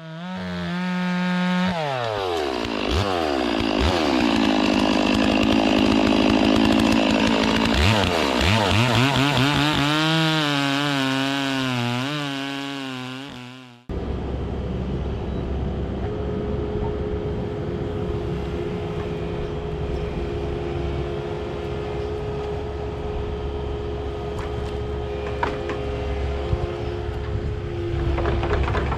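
Chainsaw running hard, its pitch sagging and wavering as it works through the wood, then cutting off abruptly about halfway through. After it, a steady machine drone with a constant hum.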